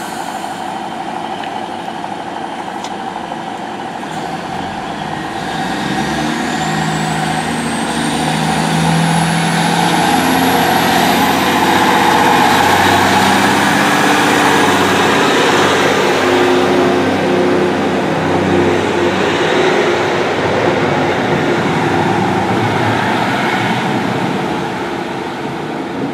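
Great Western Railway diesel train running past the platform, its engine and wheels on the rails growing louder to a peak about halfway through, then easing off. A thin high whine rises steadily in pitch as it comes by.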